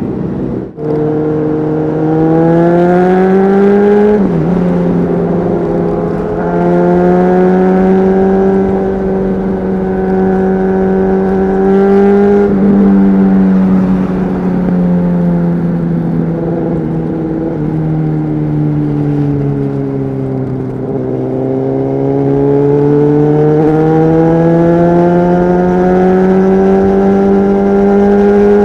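Honda CBR600RR inline-four with a Leo Vince aftermarket exhaust, heard from the rider's seat: revs climb and drop sharply twice at upshifts, then fall away slowly as the bike slows and climb again as it accelerates.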